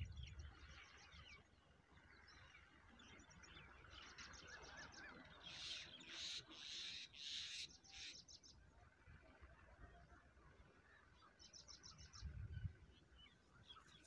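Birds calling faintly: several quick trills of short high notes, with a run of five or six louder, harsher calls about halfway through. A brief low rumble comes near the end.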